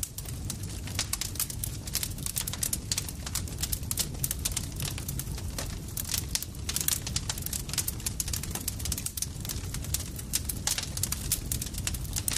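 Campfire crackling and popping, many small sharp snaps at irregular intervals over a steady low rumble of the burning fire.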